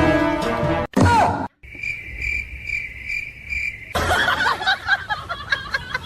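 A high, even chirp repeating about twice a second for a couple of seconds, between a short stretch of music at the start and a busy jumble of sliding calls or voices near the end.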